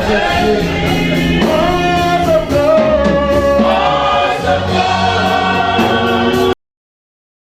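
Gospel music: a choir singing over backing instruments. It cuts off abruptly about six and a half seconds in, leaving silence.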